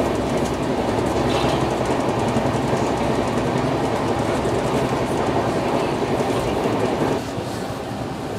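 Train running on the track: a steady rumble and rail noise, which drops a little in level about seven seconds in.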